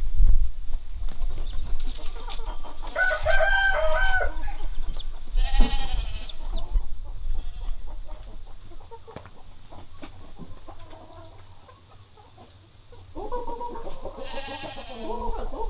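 Chickens calling: a rooster crows about three seconds in, a shorter call follows a couple of seconds later, and a longer run of clucking calls begins near the end.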